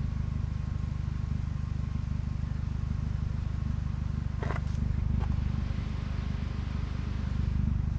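Car engine idling steadily, a low, even hum. Two brief knocks come about four and a half and five seconds in.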